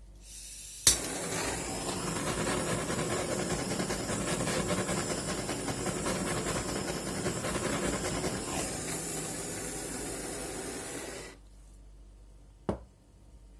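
A heat gun blowing a steady rush of hot air, switched on with a loud click about a second in and cut off suddenly some ten seconds later. A second short click follows about a second after it stops.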